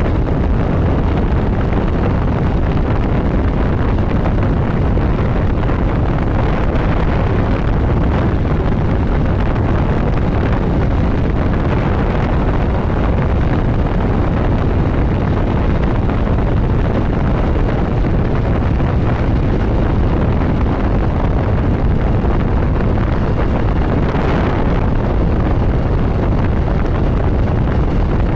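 Steady wind rush on the microphone of a motorcycle moving at road speed, with engine and road noise underneath. A brief louder, hissier rush comes about three-quarters of the way through.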